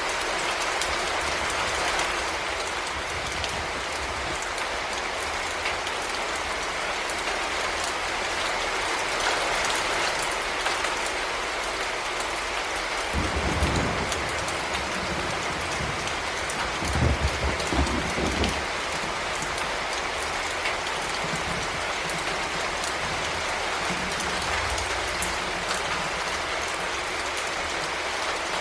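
Heavy rain falling steadily, with two short low rumbles about halfway through.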